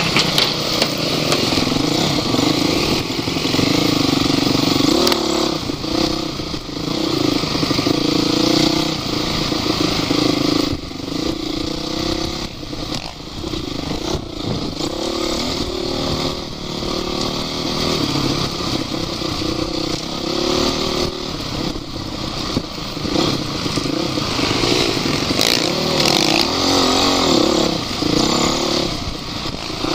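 Off-road vehicle's engine running loud under load, the revs rising and falling repeatedly as it works over rough terrain.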